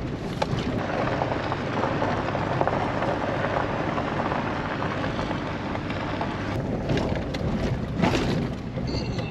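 Full-size pickup truck driving up a steep unpaved road: steady engine and tyre noise, with a couple of sharp knocks or rattles late on.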